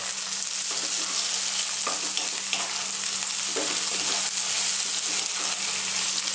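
Tofu cubes, sliced onion, garlic and ginger sizzling steadily in hot oil in a non-stick frying pan on high heat, stirred and turned with a wooden spatula, with light scrapes and shuffles of the food through the sizzle.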